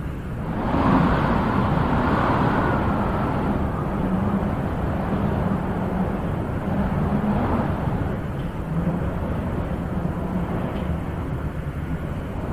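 Wind blowing in gusts with a low rumble, swelling strongly about a second in and then easing to a steady rush.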